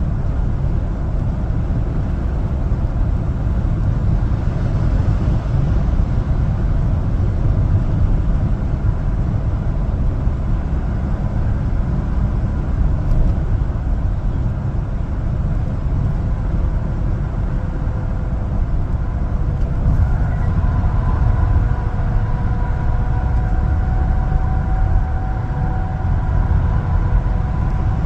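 Steady engine and road noise of an LPG-fuelled one-ton truck being driven, with faint steady whining tones joining about two-thirds of the way through.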